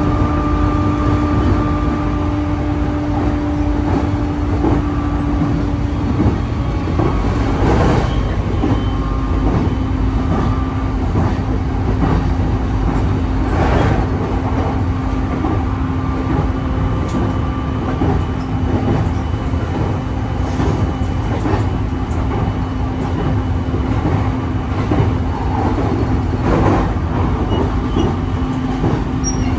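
Running noise heard inside a JR East E531-series electric multiple unit at speed: a steady rumble of wheels on rail with a steady low tone that dips slightly in pitch about six seconds in, and a few louder clunks from the track.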